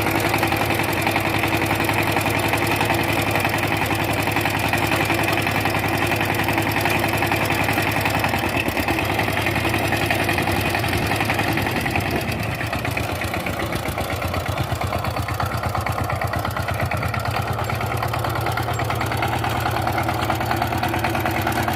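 Power tiller's single-cylinder diesel engine running steadily with a fast, even chugging. It drops a little in level about twelve seconds in.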